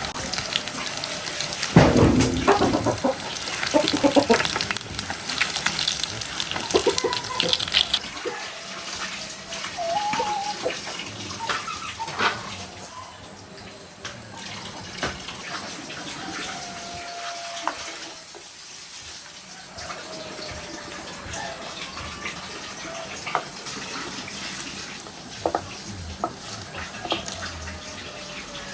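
Water running and splashing, with clinks and knocks, loudest in the first several seconds and quieter after.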